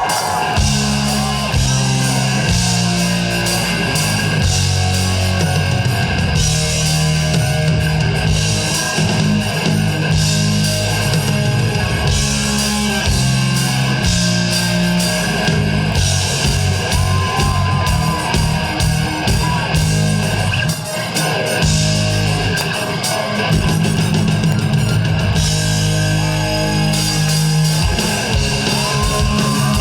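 Live rock band playing an instrumental passage, loud and continuous, with electric guitar, bass and drums.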